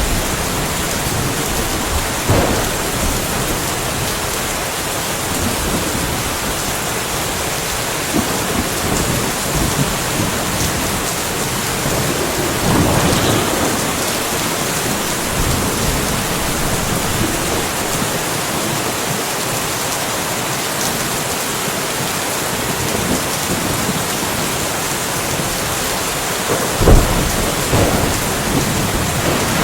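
Steady rain falling, with a few short, sudden cracks of thunder over it; the loudest comes near the end.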